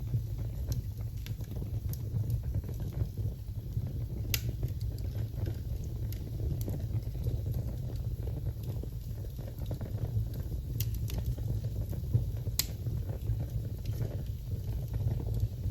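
Wood fire burning in a fireplace, crackling with scattered sharp pops, the two loudest about four seconds in and near the end, over a steady low rumble.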